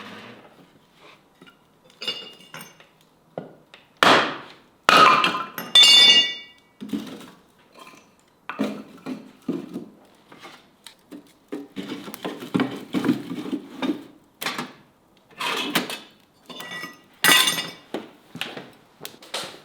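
Irregular clanks and clinks of steel being handled and knocked about, several of them ringing briefly, the loudest about four to six seconds in and again near the end.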